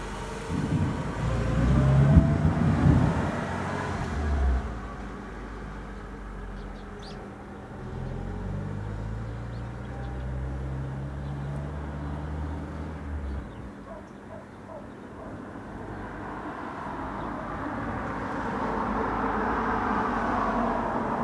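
Low rumble of thunder for the first few seconds, the loudest part. It is followed by the steady hum of a vehicle engine and the rising noise of passing traffic near the end.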